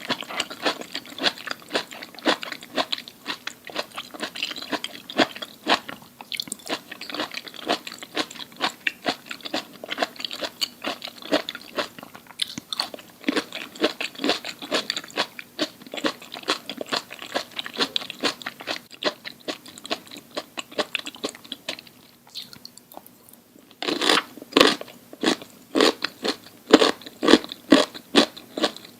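Close-miked chewing and crunching of crisp food, a rapid run of sharp crunches. There is a short lull about three-quarters of the way through, then louder crunching bites.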